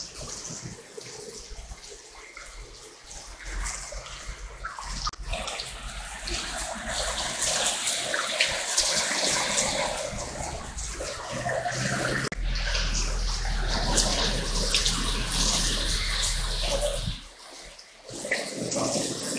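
Rain falling steadily, a hiss of water splashing on wet ground, louder after the first few seconds and dropping away briefly near the end.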